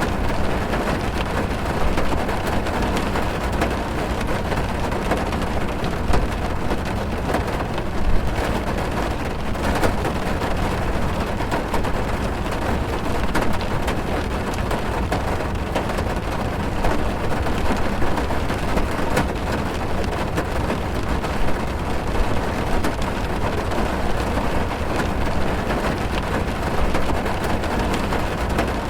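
Steady heavy rain drumming on a car's roof and windows, heard from inside the cabin, with many small drop impacts and an occasional louder hit.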